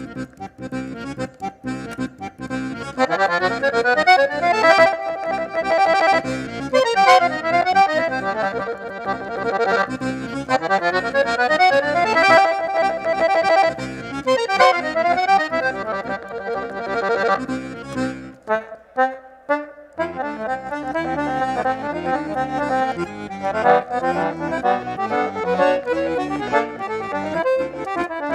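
Accordion (sanfona) playing a lively instrumental piece of fast melodic runs over sustained chords. It starts with a few sparse notes and fills out about three seconds in. Around two-thirds of the way through it breaks into short clipped notes for a moment, then carries on.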